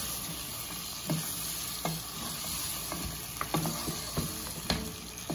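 Mutton pieces with tomatoes sizzling in hot oil in a nonstick wok while a wooden spatula stirs them, with short scrapes and knocks against the pan about once a second. This is the frying stage after the salt and pepper go in.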